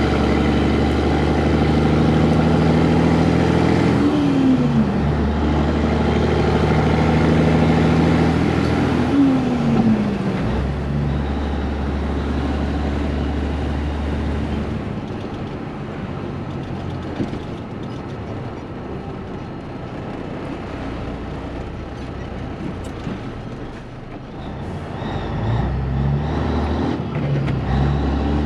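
Heavy truck diesel engine running under load, its pitch dropping twice in the first ten seconds as it shifts. It then settles into a lower, steadier rumble and eases off to a quieter running sound before pulling harder again near the end.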